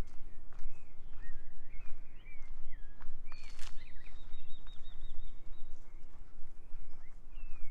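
Several birds chirping and calling, with a fast trill about halfway through, over a steady low rumble and the walker's footsteps.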